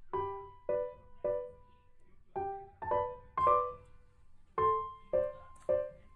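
Background piano music: a slow, sparse melody of single struck notes, each ringing and fading before the next.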